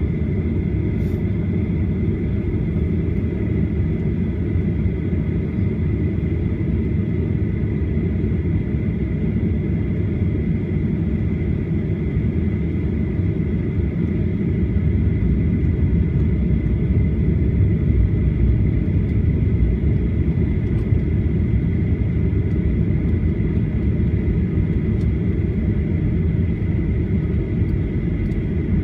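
Steady low cabin rumble inside a Boeing 737-800 on the ground with its engines running, most likely while it taxis, with a thin steady high whine on top. The rumble swells a little about halfway through.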